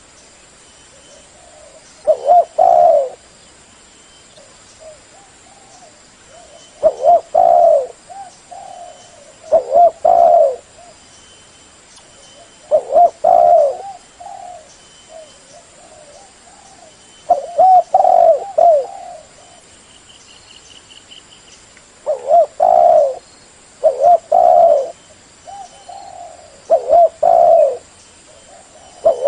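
Spotted dove cooing loudly, a phrase of several low coos repeated about every two to five seconds, eight or nine phrases in all.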